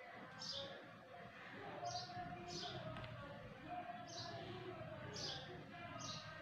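A bird chirping in the background: about seven short, high chirps, each falling in pitch, roughly one a second, faint, over distant voices.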